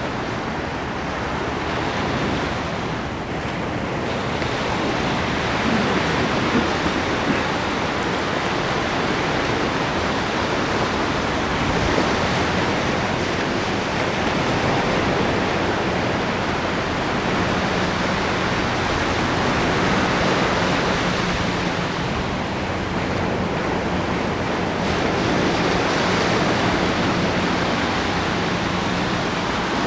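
Ocean surf: a continuous rush of waves breaking and washing in, swelling every six to eight seconds.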